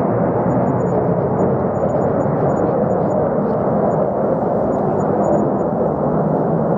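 Fighter jet engine noise: a steady, deep, muffled rush with no rise or fall.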